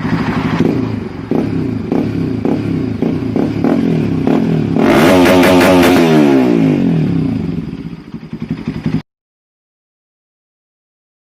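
Bajaj Pulsar NS200 single-cylinder motorcycle engine idling through its exhaust pipe. It is revved once about five seconds in and drops back to idle, then the sound cuts off abruptly.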